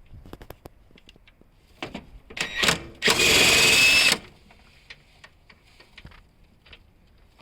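Impact wrench spinning a mount bolt loose: two short bursts, then a loud run of about a second, among light clicks and clanks of tools.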